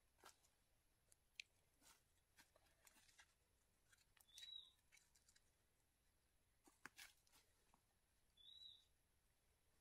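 Near silence: a bird gives two identical short chirps about four seconds apart, over faint rustles and ticks from seedlings being pressed into soil.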